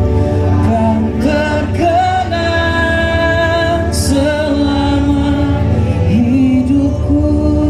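Live band music with a singing voice holding long notes that slide up into pitch, over a steady low accompaniment; a brief hiss about four seconds in.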